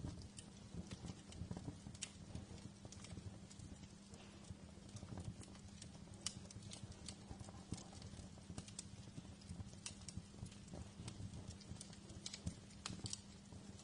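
Wood fire crackling in a fireplace, with irregular sharp pops and snaps over a steady low hum.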